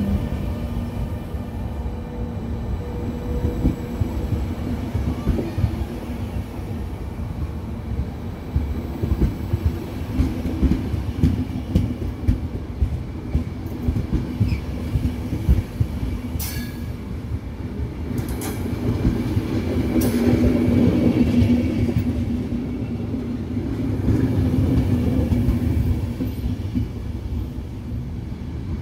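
Intercity Notte passenger coaches rolling past close by as the train comes into its terminus: a steady low rumble with wheels clicking over rail joints, some brief high squeals, and a few sharp metallic clanks around the middle.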